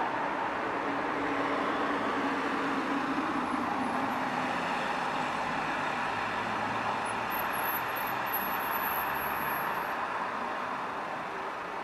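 Steady rushing noise of passing vehicles, continuous and without distinct knocks or beats, with a faint thin high whine in the latter half.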